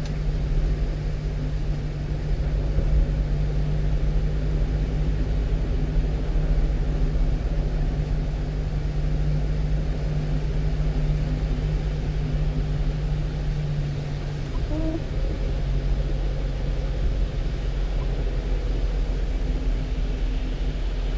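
Steady engine and road noise heard from inside the cab of a 1-ton truck under way: a constant low rumble with an even hum.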